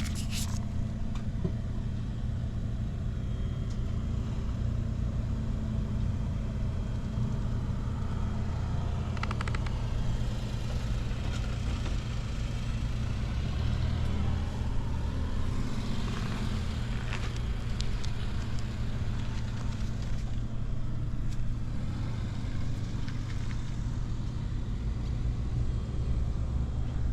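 Honda Dax 70 (ST70) small single-cylinder four-stroke engine idling steadily, running without any abnormal noise.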